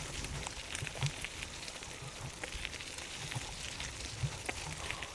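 Bicycle rolling over a rough forest track: irregular crackling and rattling clicks from the tyres and bike over a low rumble.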